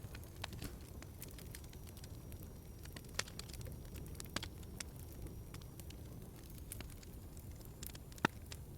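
Wood fire crackling in a fireplace: scattered sharp pops over a low steady rumble, with louder pops about three seconds in and near the end.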